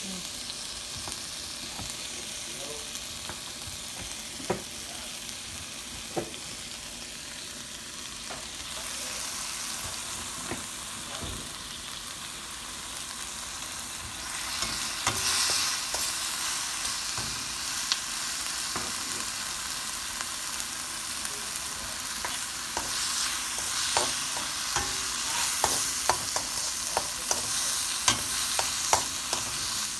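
Diced onion and green bell pepper sizzling in a wok, the sizzle growing louder about halfway through as the vegetables are stirred. A few knife chops on a cutting board come in the first several seconds, and a quick run of light knocks near the end as sausage slices go into the pan.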